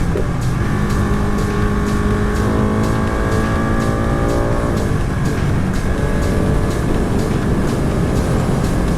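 Ducati 959 Panigale's L-twin engine under way with heavy wind rush, its revs climbing steadily through a gear for about two seconds near the middle, then dropping at the shift. Background music with a steady beat plays underneath.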